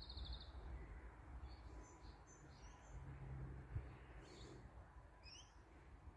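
Faint outdoor ambience: scattered short bird chirps over a low rumble, with a brief low hum about three seconds in.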